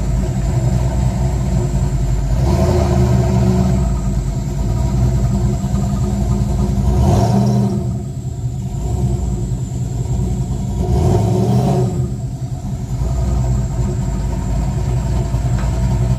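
Car engine running steadily, with three short revs about three, seven and eleven seconds in.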